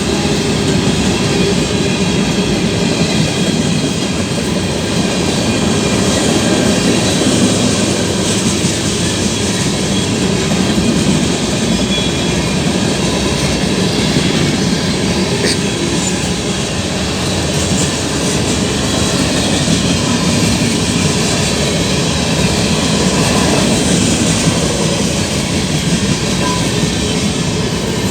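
Mixed freight train's cars rolling past, wheels clattering steadily over the rails.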